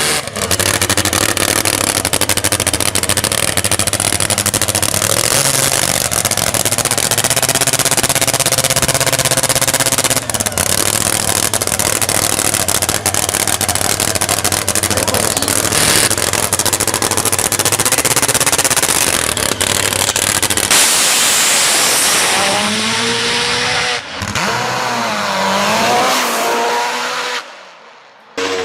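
Dirt drag racing bike engine running loud and hard for about twenty seconds, then revved up and down several times before fading and cutting off near the end.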